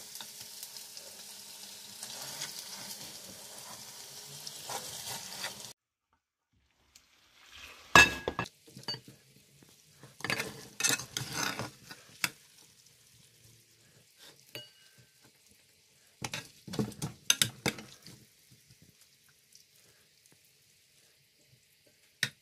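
Semolina halwa sizzling in a pan while a metal spoon stirs and scrapes through it; the sizzle cuts off suddenly about six seconds in. After that, a spoon scrapes and clinks against a pot in several short spells, the loudest about eight seconds in.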